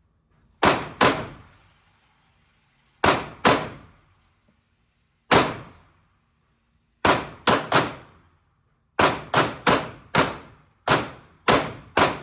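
About fifteen 9mm shots from Glock 19 pistols fired at an indoor range, in uneven strings of one to four, each shot followed by a short echo.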